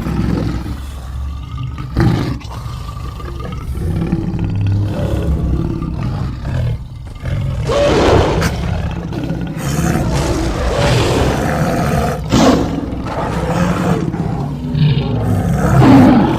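Designed giant big-cat creature sounds, layered from real leopard, lion and tiger recordings: continuous deep growling that swells into louder roars about halfway through and again near the end.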